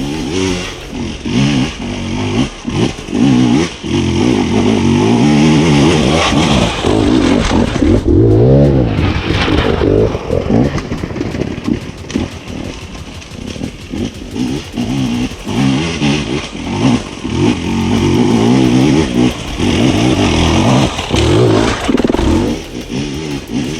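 KTM 250 EXC two-stroke enduro motorcycle being ridden hard, the engine revving up and falling away again and again as the throttle is opened and shut.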